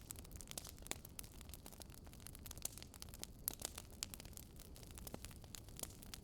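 Wood fire crackling softly: irregular sharp snaps and pops over a low steady rumble of burning.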